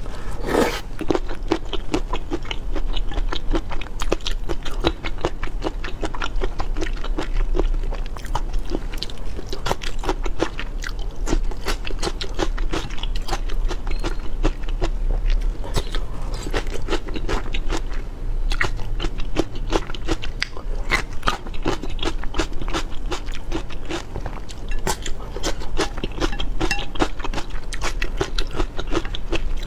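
Close-miked chewing and crunching of food in an eating ASMR recording: a dense, irregular run of crisp clicks and crackles, over a steady low hum.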